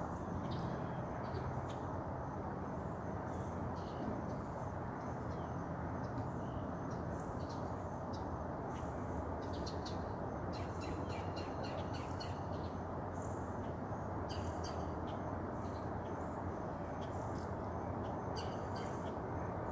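Wild birds chirping in short, high calls, scattered and coming in quick clusters, over a steady low background rumble.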